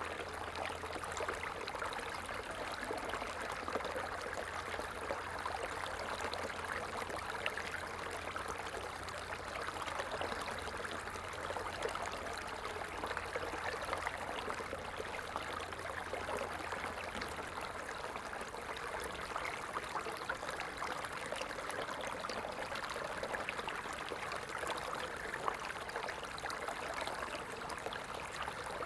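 Small stream flowing steadily, an even rush of water with light trickling.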